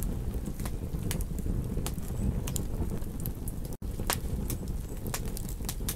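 Campfire crackling: irregular sharp pops and snaps over a low, steady rumble of burning wood. The sound drops out for an instant a little before four seconds in.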